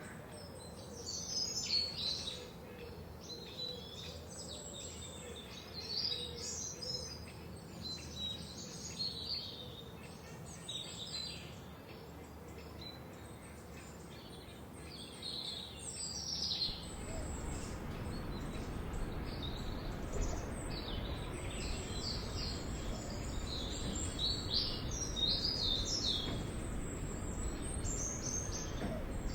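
Several forest birds singing and chirping, with many short high calls and trills overlapping. About halfway through, a steady low background noise comes up beneath them.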